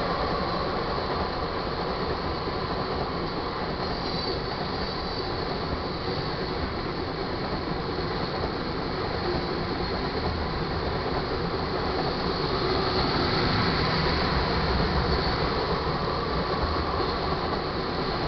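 Tank cars of a freight train rolling past at speed: a steady rumble of steel wheels on rail. A faint high wheel squeal wavers in at times.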